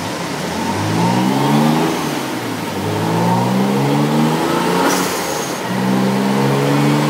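Twin-turbo Nissan 300ZX's V6 (VG30DETT) under full throttle on a chassis dyno, pulling through the gears: the engine note climbs in pitch, drops at each shift and climbs again, three times. A short sharp hiss with a high whistle comes at the shift about five seconds in.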